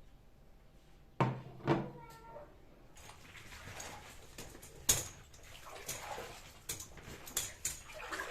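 Household objects being handled: two sharp knocks about half a second apart, the second ringing briefly, then rustling with scattered light clicks.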